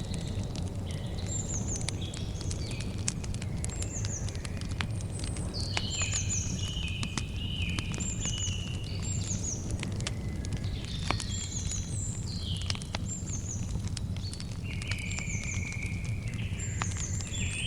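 Campfire crackling with scattered sharp pops over a steady low rumble, while several birds call throughout in short chirps and quick downward-sliding whistles.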